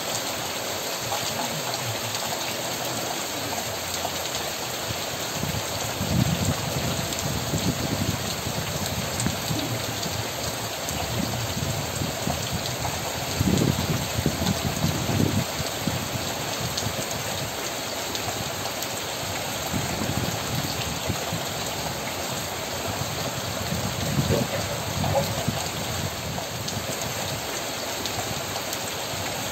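Steady rain falling, with a louder, deeper patter swelling briefly a few times.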